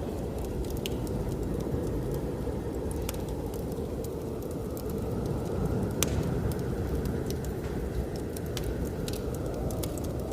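Wood fire crackling and popping in a fireplace, with sharp irregular snaps, the loudest about six seconds in, over the steady low rumble of blizzard wind that swells and eases slowly.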